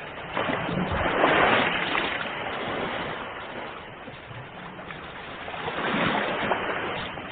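Ocean waves breaking on a shore. Two surges rise and wash out, one about a second in and another around six seconds in.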